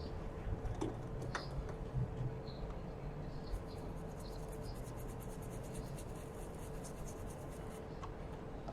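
Light scratching and rubbing as the corroded, liquid-damaged iPhone 6s logic board is scrubbed clean, with a few soft clicks in the first seconds and a fast run of scrubbing strokes about halfway through.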